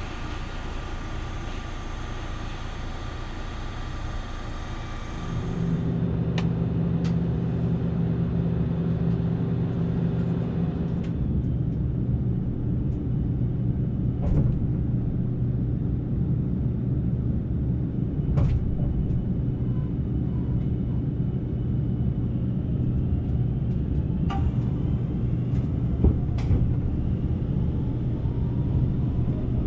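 JR Shikoku 8000 series electric express train running, a steady rumble with humming tones. About five seconds in, the sound turns louder and lower. A few sharp clicks come through here and there.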